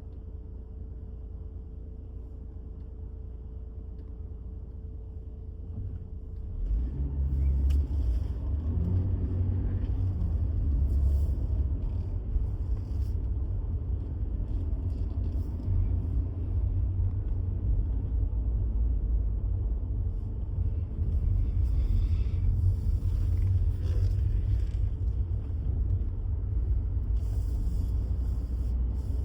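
Low steady rumble that grows clearly louder about seven seconds in and stays that way.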